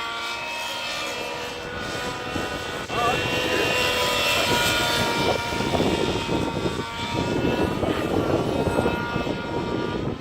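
Nitro-powered RC helicopter in flight: its glow engine and rotors run with a steady high-pitched whine, growing louder about three seconds in.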